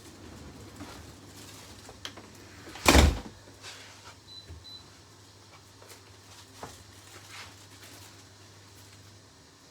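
Quiet kitchen handling while spices are spooned out: light clicks and taps, with one loud sharp knock about three seconds in.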